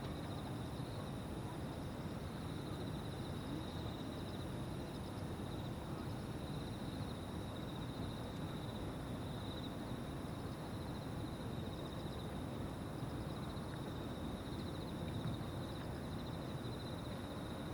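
A chorus of insects trilling steadily: a high, fast-pulsing trill with a second, thinner trill higher still. A low, even background noise runs underneath.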